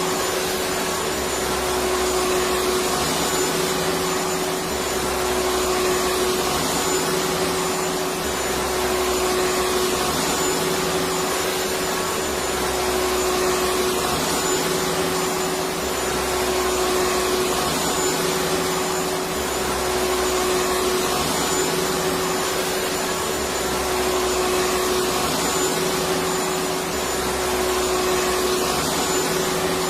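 Electric vacuum cleaner running steadily: an even rushing of air with a constant motor whine, and a low pulse that comes back every couple of seconds.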